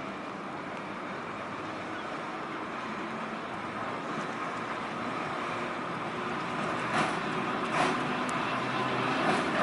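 Volk's Electric Railway electric car running along the narrow-gauge track, a steady rumble growing slowly louder, with a few sharp clicks of the wheels over rail joints near the end.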